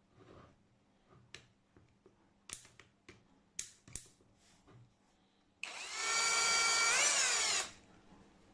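A 21 V cordless drill driver's motor is run for about two seconds, its whine rising in pitch shortly before it cuts off. Before that come a few seconds of clicks and light knocks from the tool being handled.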